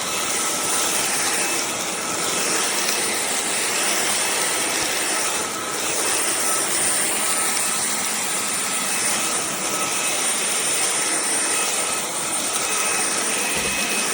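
Cordless stick vacuum running steadily: an even rushing of air with a thin high whine from the motor, holding at one level throughout.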